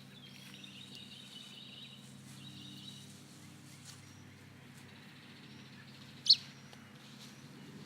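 Birds chirping in the background, with faint high calls scattered through and a band of twittering for the first few seconds, over a steady low hum. About six seconds in, one brief, sharp, much louder sound stands out.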